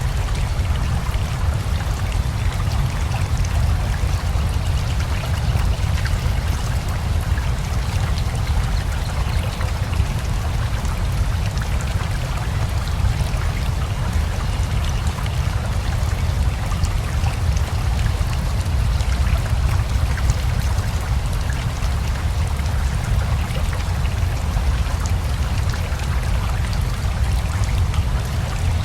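Steady rain together with a flowing river: a deep low rumble under an even hiss.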